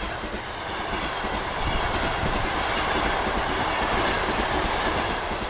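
A train running past on the rails: a steady rushing rail noise that swells slightly in the middle.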